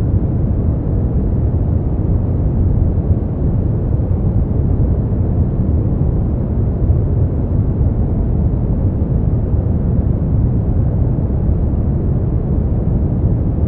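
Steady generated noise for sleep, sold as white noise but deep and dark. Most of its weight sits low, with only a little hiss above, and it never changes.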